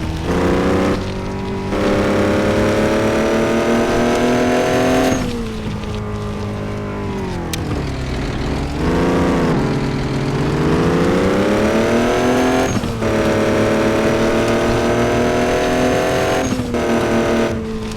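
Truck engine accelerating through the gears. Its pitch climbs steadily and drops at each upshift, about five, thirteen and seventeen seconds in. In the middle it falls away as the truck slows, then climbs again.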